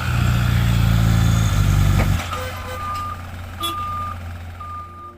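Truck engine running loudly, dropping back about two seconds in, then a reversing alarm beeping three times, about one beep a second.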